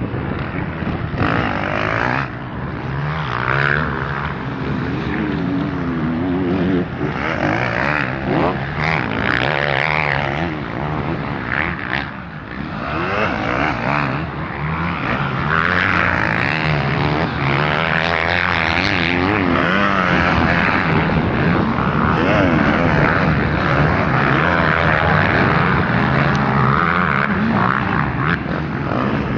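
Several motocross bikes' engines revving up and down, loud and continuous, with overlapping pitches that keep rising and falling as the bikes go round the track.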